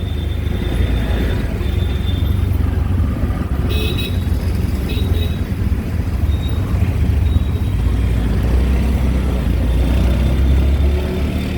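Riding in an auto-rickshaw through city traffic: the rickshaw's engine and road noise make a steady low rumble, with a couple of short horn toots about four and five seconds in.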